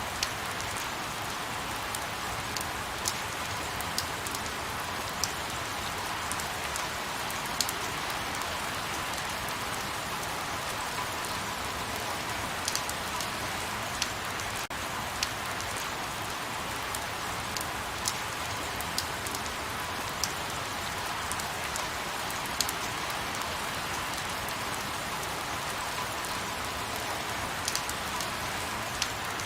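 Light rain falling steadily: an even soft hiss with single sharper drop ticks scattered through it.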